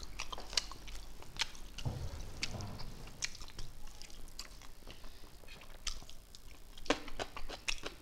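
Close-up mouth sounds of eating by hand: chewing with irregular wet clicks and lip smacks, a few coming close together near the end.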